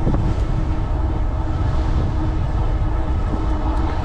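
Strong wind buffeting the microphone of a moving e-bike: a loud, steady low rumble, with a faint steady whine underneath.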